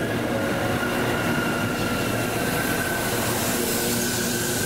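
A train running past on the rails: a steady rumble with faint, thin high whining tones over it.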